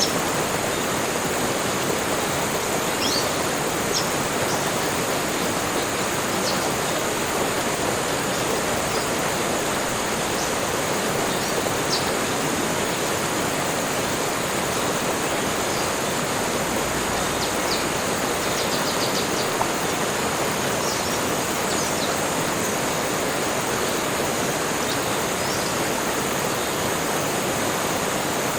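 Steady rushing of running water, like a forest stream or small waterfall, with brief faint bird chirps scattered through it and a steady high-pitched hiss above.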